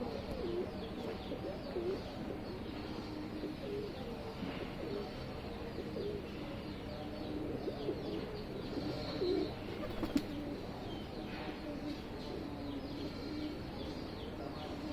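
Pigeons cooing, many short low coos overlapping one after another throughout, with one sharp click about ten seconds in.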